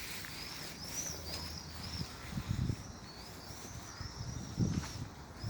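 A small songbird singing, a long run of short, high, arching notes repeated about twice a second. Two soft low thumps come about midway and near the end.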